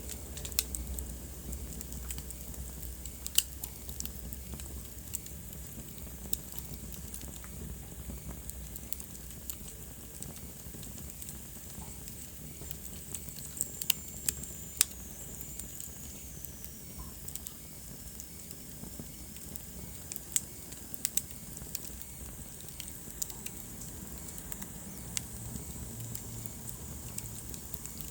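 Wood fire burning in a fireplace: a steady soft hiss with irregular sharp crackles and pops, and now and then a louder snap. Around the middle, a faint high whistle glides downward.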